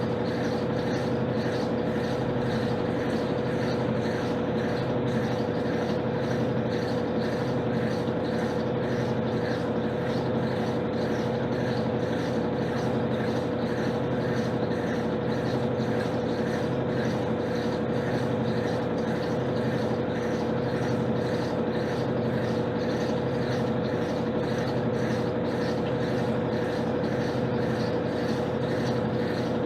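Electrolux LTC10 washing machine running at a steady speed with a constant hum, typical of the final spin near the end of the jeans cycle.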